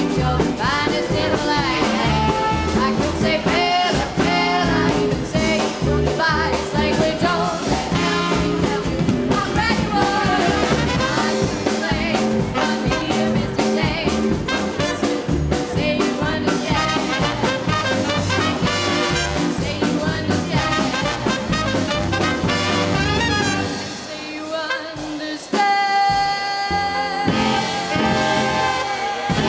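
Live swing band with horns and drums playing, with women singing over it. Near the end the band drops back briefly and a long held note follows.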